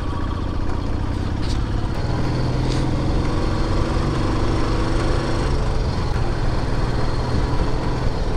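Motorcycle engine running steadily under way, heard from the rider's seat, with road and wind noise.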